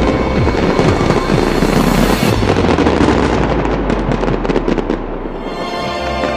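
Fireworks bursting and crackling over music. The crackle thins out about five seconds in as the music comes to the fore.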